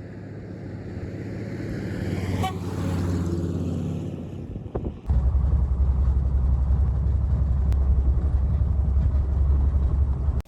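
An engine running steadily. About five seconds in it changes abruptly to a louder, deeper drone, which cuts off suddenly at the end.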